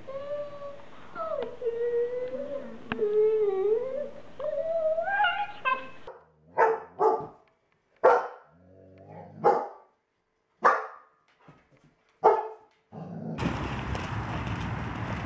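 German shepherd dogs whining and howling in wavering, gliding tones for several seconds, then a German shepherd barking about six times in short, separate barks. Near the end the sound changes suddenly to a steady rush of water splashing as a dog runs through a puddle.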